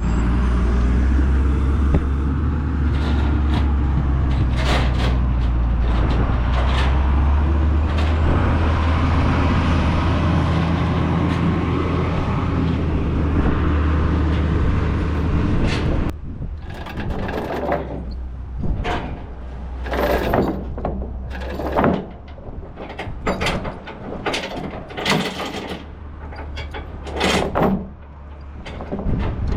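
A large vehicle engine running steadily at a low, even pitch, cutting off about 16 seconds in. It is followed by scattered metallic clanks and knocks.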